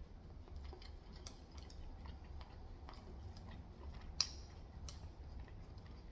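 Faint mouth sounds of chewing crunchy Korean fried chicken: scattered small crackles and clicks, with one sharper crunch about four seconds in.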